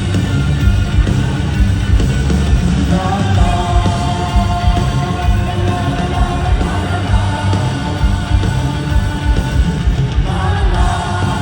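Live rock band playing a loud instrumental passage, with heavy drums and bass underneath. A held melody line comes in about three seconds in and returns near the end.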